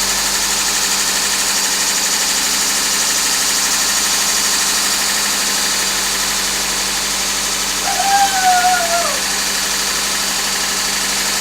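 Honda D16Z6 1.6-litre SOHC VTEC four-cylinder engine running steadily at idle on its first startup after a rebuild. A short voice is heard about eight seconds in.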